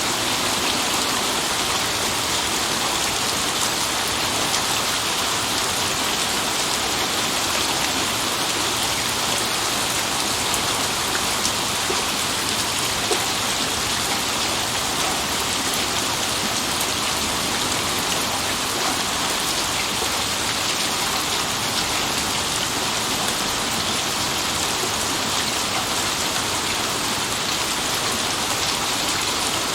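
Steady heavy rain falling on a surface, an even hiss with scattered drop ticks and no clear thunder.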